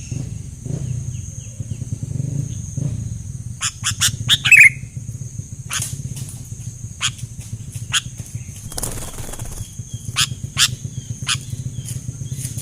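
Sooty-headed bulbuls giving short, sharp chirps, loudest in a quick cluster about four seconds in and scattered after, over a steady high-pitched hum and a low rumble.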